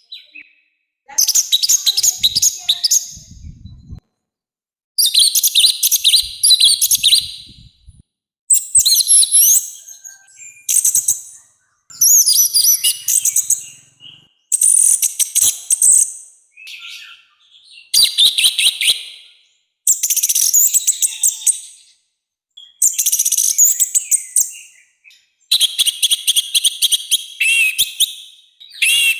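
Orange-headed thrush singing a loud, harsh song in about ten bursts of rapid, high, jumbled notes, each one to two seconds long, with short pauses between.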